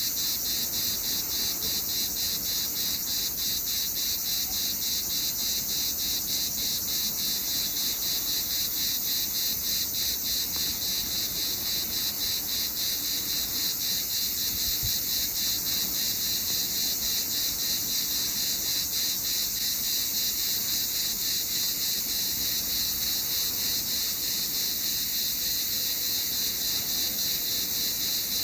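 Cicadas singing: a steady, high-pitched buzz with a fast, even pulse.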